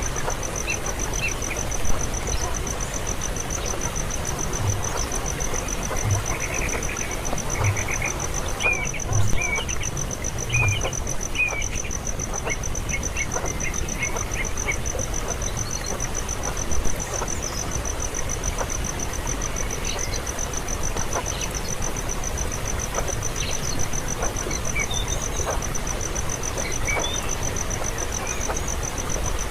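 Animal chorus: a steady, high, fast-pulsing trill throughout, with a run of short, higher chirps between about six and twelve seconds in.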